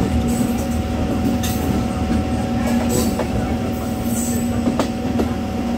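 Passenger train running at speed, heard from the open coach doorway: a steady rumble of wheels on rails with a steady hum, and a sharp click about every second and a half as the wheels cross rail joints.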